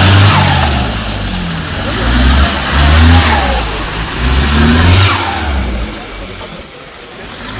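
Car engine revving hard in about three surges of acceleration, then fading as the car moves away.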